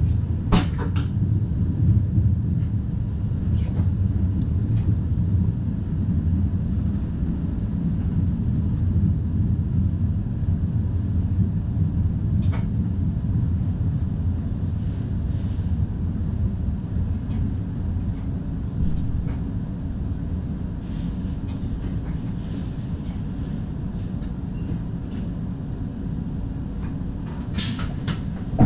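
Steady low rumble of an NS DDZ double-deck electric train heard from the driver's cab, with a few short sharp clicks. The rumble eases slightly toward the end.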